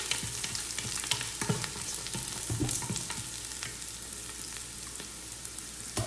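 Onions and whole spices sizzling in hot olive oil in an electric pressure cooker's nonstick inner pot, stirred with a wooden spatula that scrapes and taps against the pot. The taps come mostly in the first half, with a louder knock right at the end.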